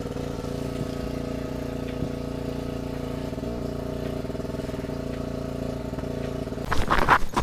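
An engine running steadily at an even speed. Near the end, a burst of loud knocks and rattling.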